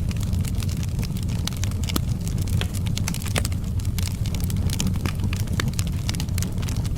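Wood fire crackling, with frequent irregular small pops and snaps over a steady low rumble.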